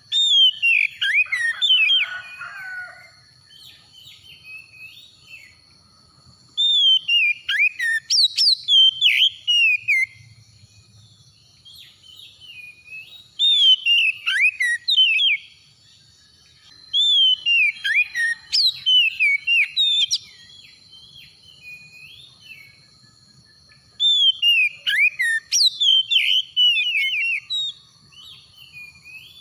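Oriental magpie-robin singing in five bouts of rapid, down-slurred whistled phrases a few seconds apart, over a faint steady high tone.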